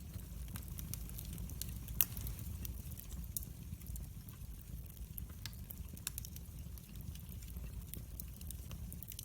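Wood fire burning in a fireplace, crackling with scattered sharp pops over a steady low rumble. One pop about two seconds in is louder than the rest.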